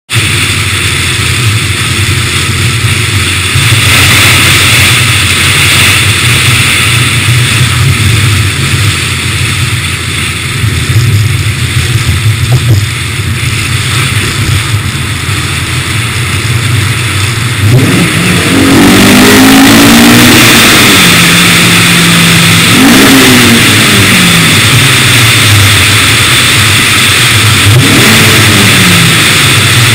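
Honda S2000's four-cylinder engine breathing through a Comptech exhaust and K&N intake, running steadily at first. From a little past halfway it revs up hard several times, its pitch climbing, holding and dropping again as it goes through the gears.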